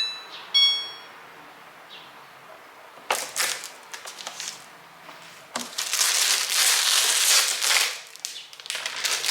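Two short electronic beeps from a washing machine's control panel as the start button is held to begin calibration. They are followed by broad rushing, rustling noise, in short bursts at first and then steadier and louder from about 6 to 8 seconds in.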